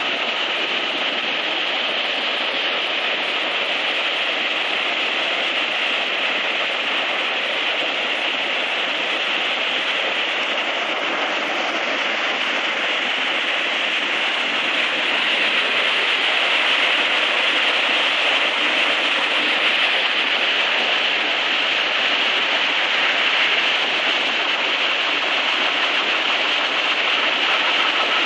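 Muddy flash-flood water rushing across a street and churning white beside the road: a steady rushing noise that grows a little louder about halfway through.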